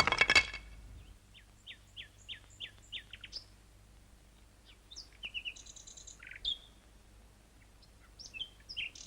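Small bird chirping: a quick run of about eight short falling chirps, then more varied chirps in short groups.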